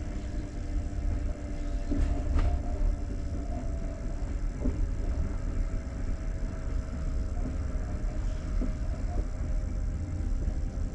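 Passenger train carriage: a steady low rumble with a continuous mid-pitched hum, and a couple of light clicks.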